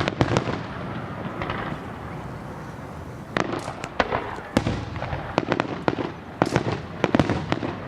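Fireworks going off: a loud bang at the start, then quick irregular runs of sharp bangs and crackles, thickest in the second half.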